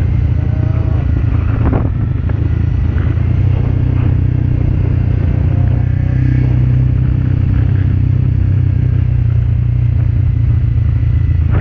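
Dual-sport motorcycle engine running steadily while riding, pulling up a climb: a loud, even low rumble.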